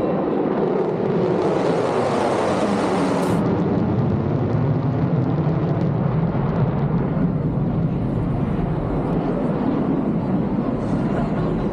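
Military jet fighter flying past during a demonstration, loud continuous jet engine noise whose low pitch slides downward in the first few seconds.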